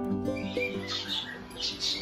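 Caged birds chirping and squawking in repeated short calls, growing busier through the second half, over plucked-string background music that fades.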